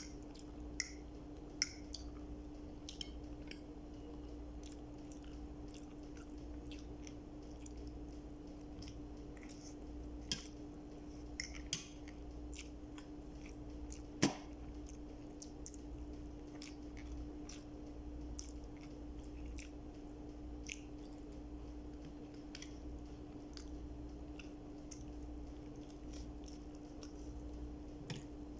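A person chewing and eating food close to the microphone, with scattered small clicks and taps and one sharper click about halfway. A steady low hum runs underneath.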